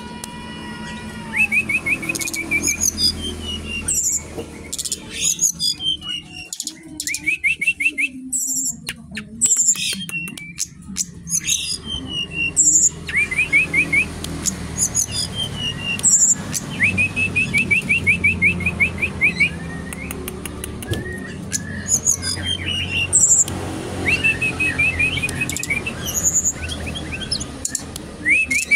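A sikatan rimba dada coklat (SRDC, a jungle flycatcher) singing vigorously, with phrases of quick, evenly repeated notes and higher calls. A run of clicks comes about a third of the way in.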